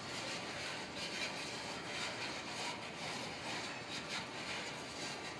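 Hopper cars of a freight train rolling slowly past, their wheels running on the rails in a steady noise with scattered clicks.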